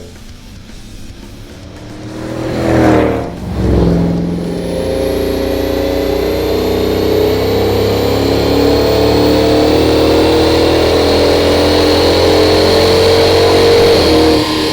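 Supercharged 5.7 L Hemi V8 through a Flowmaster Super 44 stainless dual exhaust, with a deep exhaust note. It swells and dips once, then pulls steadily under acceleration with its pitch slowly rising, and a faint high whine climbs along with it.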